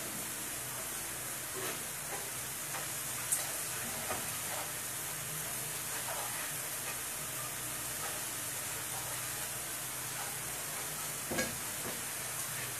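Curry spice paste frying in oil in a nonstick frying pan: a steady sizzle, with a spoon stirring and scraping through it and now and then knocking on the pan, most sharply near the end. The paste is being sautéed until the oil separates.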